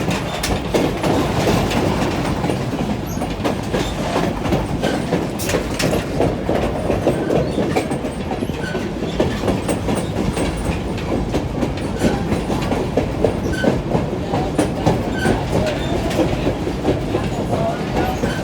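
Moving passenger train heard from aboard: a steady rumble of the cars rolling on the track, with frequent short clicks and clatter of wheels over rail joints.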